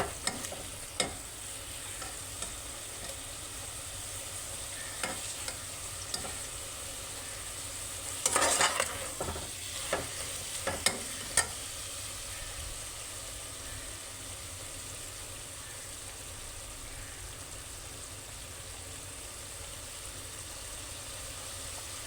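Tinda (round gourd) sizzling steadily as it fries in a pan, with a spoon stirring and scraping against the pan now and then, in a flurry about eight seconds in and a few sharp clinks shortly after.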